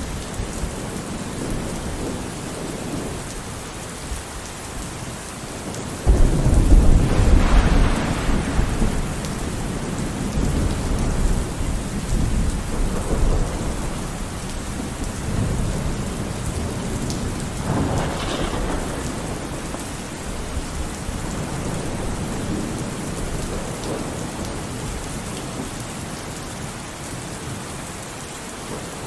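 Steady rain falling, with a loud rumble of thunder breaking in about six seconds in and rolling on for several seconds, then a smaller rumble about eighteen seconds in.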